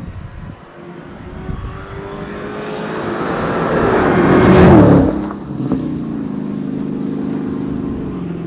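Dodge Challenger SRT Hellcat's supercharged 6.2-litre Hemi V8 driving past: the exhaust note grows louder over about four seconds, peaks about five seconds in, and drops in pitch as the car goes by, then recedes as a steadier, quieter drone.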